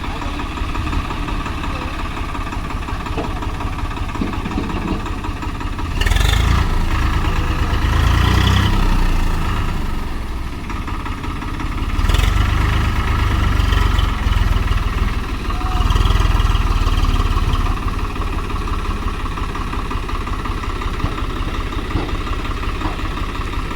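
Tractor diesel engines running steadily, revving up and straining in three louder surges, about a quarter, half and two-thirds of the way through, as they pull a trolley stuck in mud.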